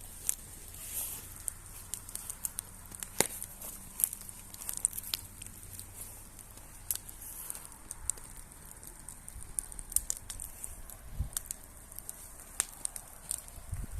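Campfire burning, the wood crackling with irregular sharp pops and snaps over a faint hiss.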